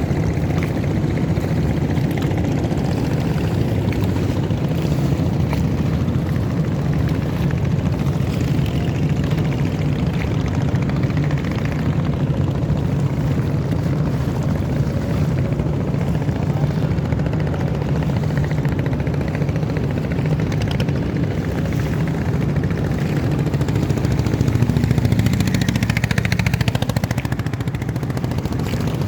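A boat's engine running steadily with a low rumble, growing a little louder near the end.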